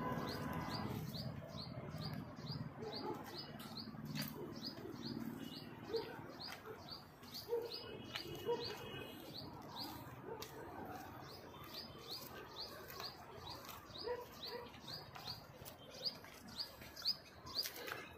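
A small bird repeating a short, high chirp over and over, about two or three times a second, over faint outdoor background noise.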